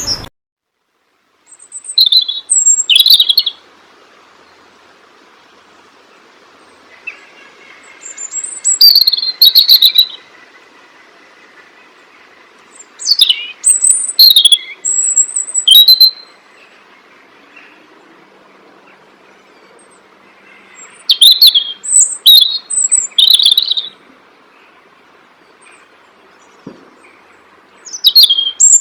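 A songbird singing in short bouts of high, quick chirps and trilled notes, about five bouts, each a second or two long and several seconds apart. Between the bouts there is a faint hiss.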